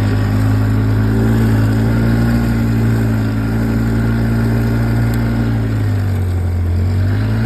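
ATV engine running at a low, steady speed. Its pitch sags near the end as the throttle eases, then picks back up.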